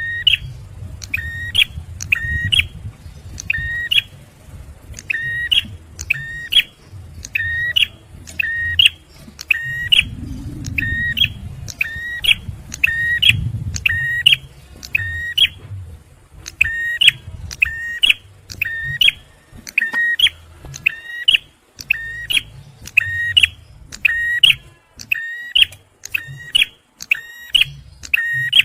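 Male bar-winged prinia (ciblek) giving its sharp, shrill 'tembakan' call over and over, about one to one and a half notes a second, with a short break about halfway through. A low rumble runs underneath.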